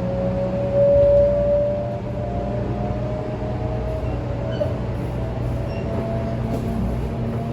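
500 Series Shinkansen VVVF inverter and traction motors whining, one clear tone rising slowly in pitch as the train accelerates, over a steady low running rumble.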